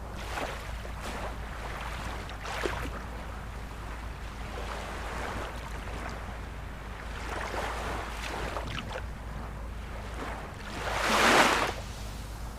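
Ocean surf washing in, a steady hiss of water with several smaller surges, and one bigger wave breaking loudly about eleven seconds in.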